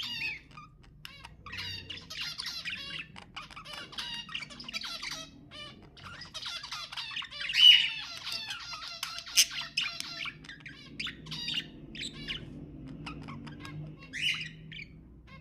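Budgerigars chattering and warbling in fast runs of squawks, chirps and clicks, with the loudest squawk a little past halfway.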